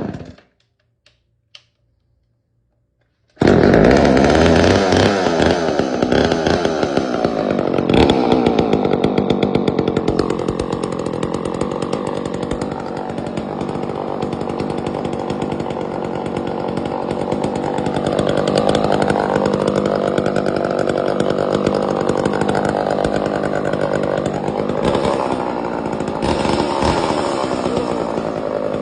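Homelite XL-76 two-stroke chainsaw engine running steadily after a choked cold start, its pitch wavering slightly now and then. The sound breaks off completely for about three seconds near the start, then comes back at full level.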